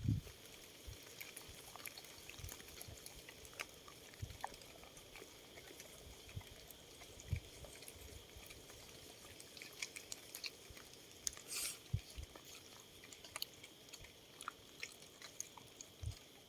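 Quiet forest ambience: a faint steady high drone with scattered small clicks, crackles and a few soft low knocks.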